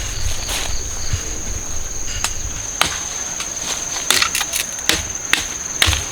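An insect chirring steadily on one high pitch, with a series of sharp knocks from about two seconds in, several of them close together near four seconds.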